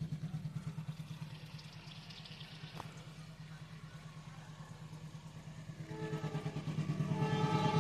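An engine running with a steady, low, fast-pulsing throb. From about six seconds in, a chord of steady pitched tones joins it and grows louder.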